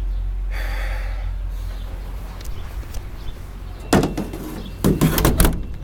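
Metal door of an old truck being handled: a sharp clunk about four seconds in, then a quick run of clunks and rattles near the end, over a low steady hum.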